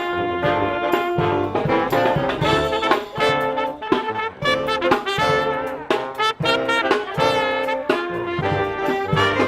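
Brass marching band playing live: trumpets and trombones carrying held and moving notes over drums.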